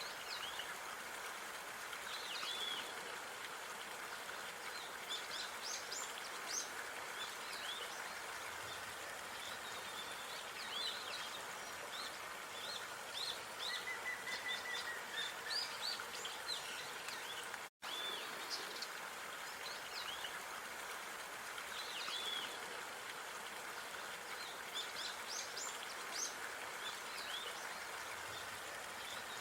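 Outdoor park ambience: small birds chirping and whistling, short high calls scattered throughout, over a steady background hiss. About 18 seconds in the sound cuts out for an instant where the looped recording starts over.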